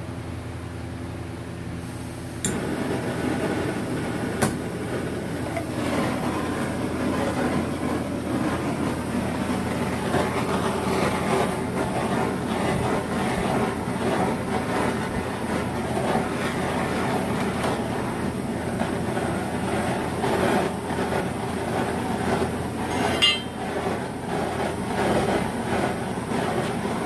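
A motor hums steadily; about two and a half seconds in, a louder, continuous rattling mechanical noise starts and runs on, with a sharp click shortly after and another near the end.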